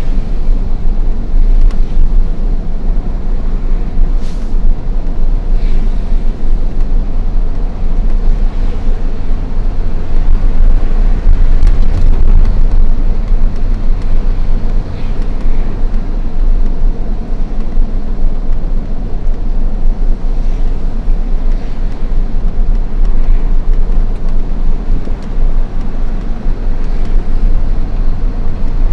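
Hino FL 260 JT truck's diesel engine running steadily on the road, a loud, even low rumble with road noise.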